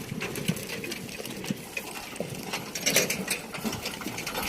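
Bullock cart on the move, its cart rattling and clattering with a quick, irregular run of knocks and clicks.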